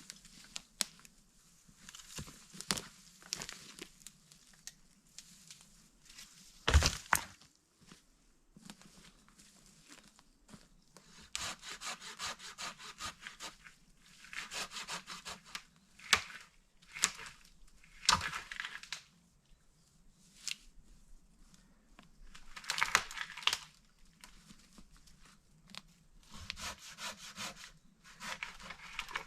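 Hand saw cutting wood in short spells of strokes with pauses between them, and one sharp knock about seven seconds in.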